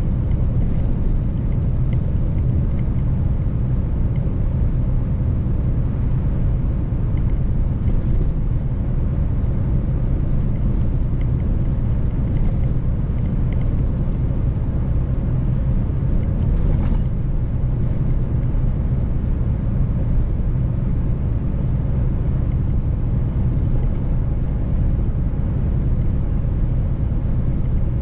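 Mercedes-Benz truck driving on the road, a steady low engine and road rumble.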